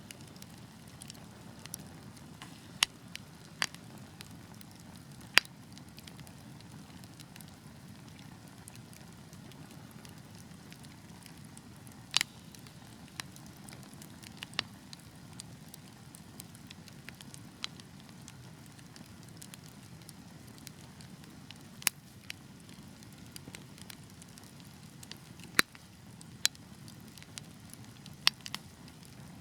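Wood fire burning with a steady low rush of flames and irregular crackles, with a handful of sharper, louder pops spread through.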